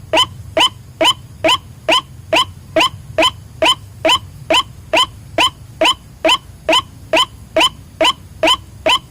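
White-breasted waterhen (ruak-ruak) lure call: one short note repeated very evenly, a little over twice a second.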